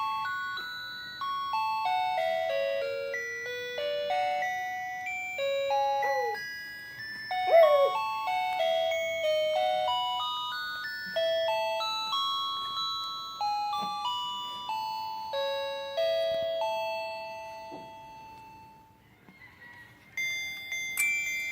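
A simple chiming tune of single bell-like notes, like a baby's musical toy, with two short sliding vocal sounds about six and seven and a half seconds in that fit a baby's coos. The tune fades near the end and a new one starts just before the end.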